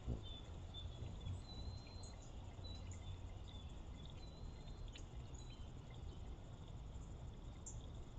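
Faint, scattered chirps and short high whistles from birds calling before daylight, over a steady low background rumble.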